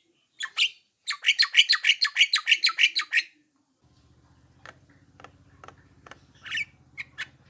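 Javan myna (jalak kebo) calling: a short harsh call, then a fast run of about fourteen harsh chattering notes lasting about two seconds. After that come scattered short clicks and squawks over a low steady hum that starts about halfway.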